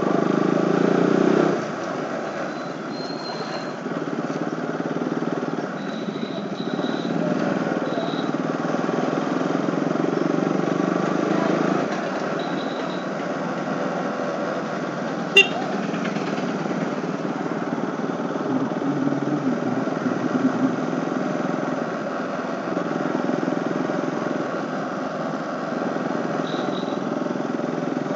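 KTM RC 200's single-cylinder engine running while riding along, its level shifting now and then. There is a sharp click about fifteen seconds in, and a few brief faint high tones.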